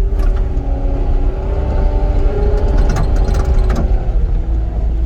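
Vehicle engine running steadily under a heavy low rumble, its pitch stepping down about a second in and dipping briefly near four seconds, with a few faint clicks.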